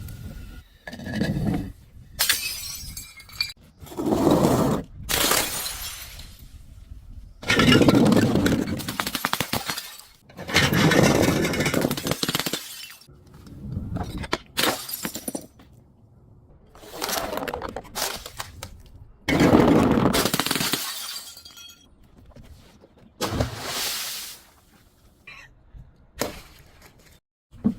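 Glass bottles smashing in a series of separate crashes, about a dozen, one every second or two, each with a crunchy shattering tail.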